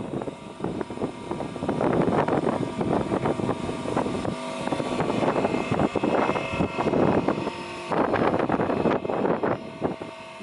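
Hullhorst double-blade format saw running: a steady motor hum with uneven surges of rushing noise, which drop away just before the end.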